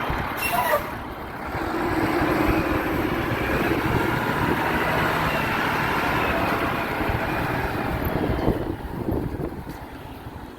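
Garbage truck running close by, loud and steady for several seconds, then easing off near the end. A brief higher-pitched squeal comes about half a second in.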